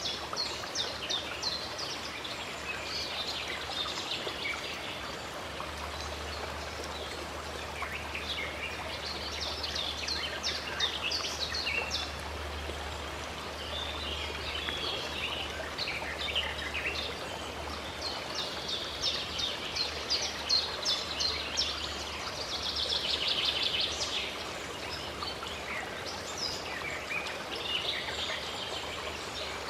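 Songbirds chirping in quick trills and repeated bursts that come and go, over a steady rush of running water.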